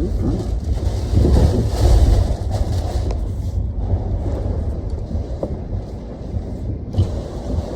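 Thunderstorm winds buffeting the microphone: a dense, loud low rumble that peaks about two seconds in, then eases.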